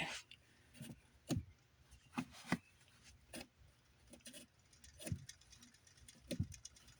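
About ten light, irregular taps and knocks with faint rustling, the sound of objects being handled and set in place.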